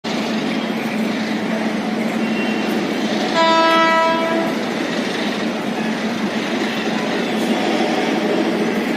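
Bangalore–Chennai double-decker express train running in with a steady rumble and clatter of wheels on the rails. A little over three seconds in, a train horn sounds once for about a second.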